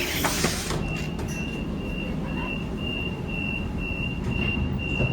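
Waratah train door-closing warning beeper sounding a steady string of high beeps, about two a second, over the low hum of the stationary train. There is a hiss at the start and a loud thump near the end.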